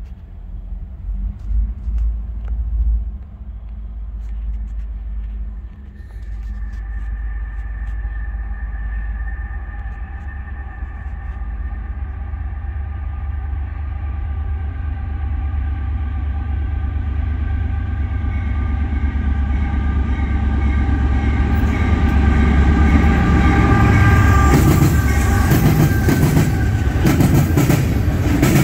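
Diesel freight locomotive hauling a Norfolk Southern oil train, its chime air horn sounding a long multi-note chord from about six seconds in, over a steadily growing engine and rail rumble. Near the end the tank cars roll past close by with wheels clattering over the rail joints.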